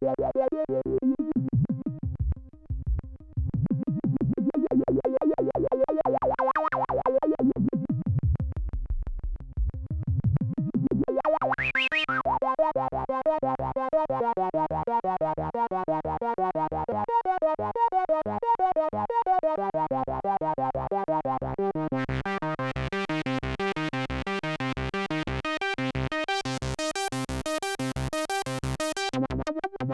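Korg Minilogue analog synthesizer playing a fast, dry arpeggio of rapidly repeating notes. Its filter is swept down and back up several times, so the tone goes dull and then bright again. About two-thirds of the way through, the sound turns much brighter and buzzier.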